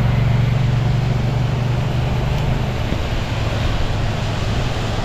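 Road traffic on a wet road: a steady low motor-vehicle hum that fades about three seconds in, over a constant hiss of tyres on wet pavement.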